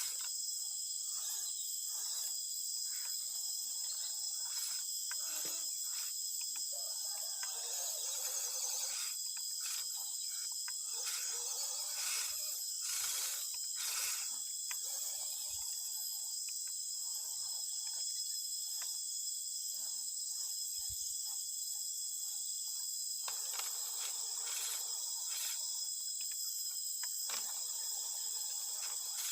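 Steady high-pitched drone of insects, like a cricket chorus, with scattered clicks and short stretches of rustling noise.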